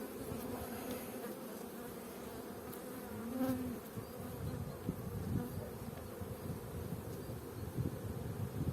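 Honeybees buzzing steadily around an open hive. About three and a half seconds in, one bee's buzz briefly rises and falls as it passes close.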